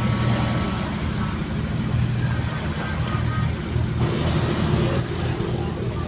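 Ship's diesel engines running, a steady low rumble.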